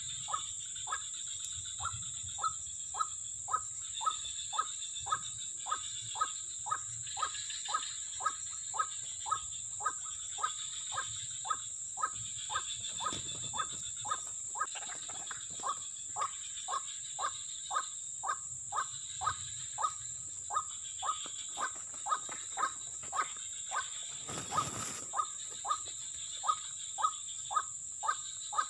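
White-breasted waterhen (ruak-ruak) calling: a short falling note repeated steadily about twice a second. Behind it runs a continuous high insect drone.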